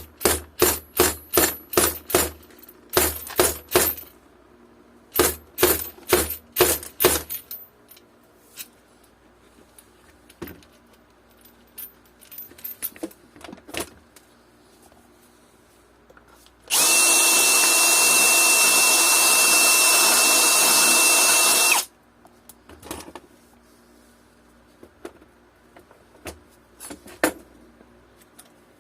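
Three quick runs of sharp metal taps with a dull thud under each, about three a second, during work on the bike's axle nuts. About 17 seconds in, a power tool runs steadily with a high whine for about five seconds, then stops suddenly.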